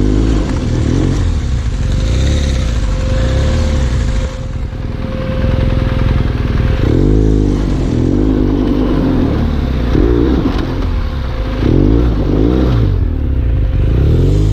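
Trail motorcycle engine running over a dirt track, its pitch rising and falling again and again as the throttle is opened and closed.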